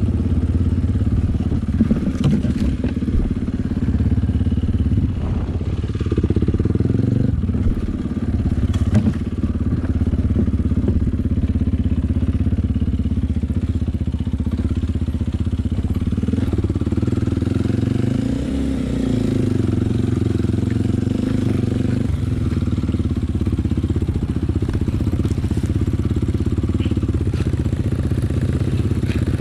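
Enduro dirt bike engine running continuously under way, its pitch shifting up and down a little past the middle as the throttle changes, with occasional clatter of the bike over rough ground.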